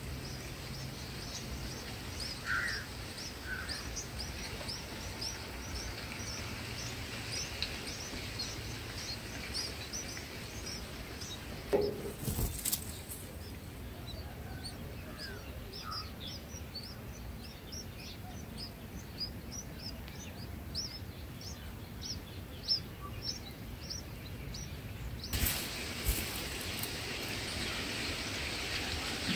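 Small birds chirping: a steady run of thin, high chirps, several a second, with a few lower calls among them. A brief loud rustle comes about twelve seconds in, and a hiss of background noise rises near the end.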